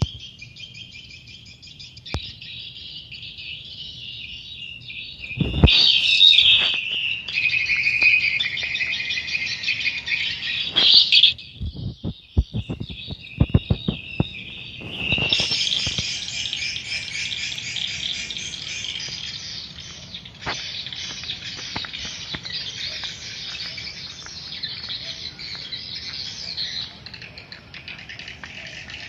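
Swiftlets twittering densely in a swiftlet house, a continuous high chirping that swells louder about five seconds in and again midway, with a run of sharp clicks in between.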